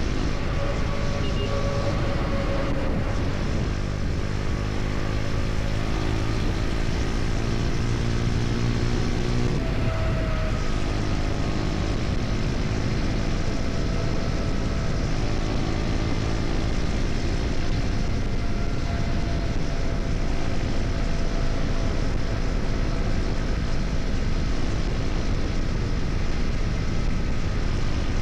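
KTM Duke 250's single-cylinder engine running at highway speed, with road noise under it. The engine note rises a little a few seconds in, then holds steady.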